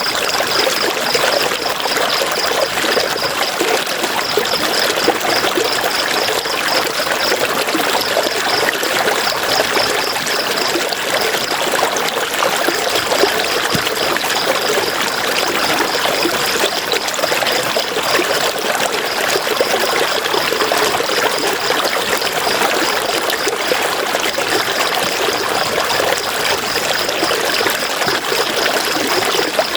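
River water running and splashing over rocks, a steady, full rushing-and-trickling sound. A high, rapidly pulsing trill runs over it, breaking off briefly a few times.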